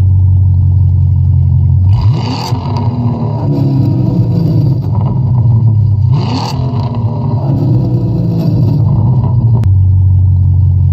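Car engine running loudly at a steady low drone, revved twice, about two seconds in and again about six seconds in.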